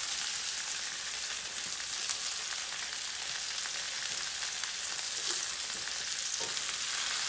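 Chicken breasts sizzling in hot oil in a frying pan as the seared pieces are laid in: a steady, high frying hiss with light crackling.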